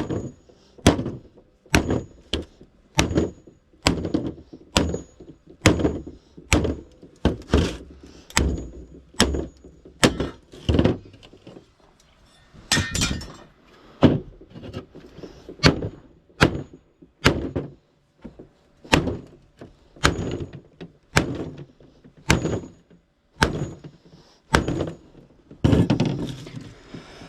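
Repeated heavy blows on scrap being knocked apart, roughly one a second with small gaps, some leaving a brief metallic ring.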